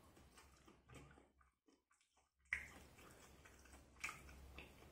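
Faint sounds of a person chewing and picking at fried chicken, with a few small clicks and crackles. The sounds drop almost to silence just before halfway.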